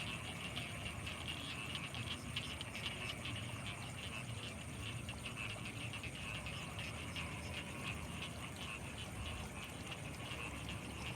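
Night chorus of frogs calling in a dense, steady stream of rapid pulses, with a constant thin high-pitched tone above it.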